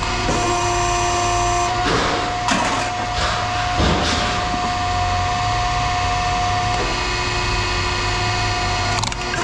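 A small power tool or machine runs with a steady hum. Several short, harsh scraping strokes come about two to four seconds in, and another near the end.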